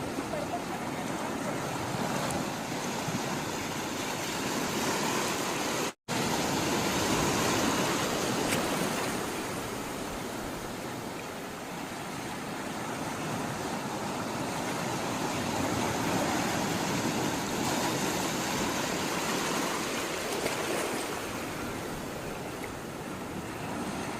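Sea waves washing in, a continuous rush of water that swells and eases over several seconds at a time. The sound cuts out completely for an instant about six seconds in.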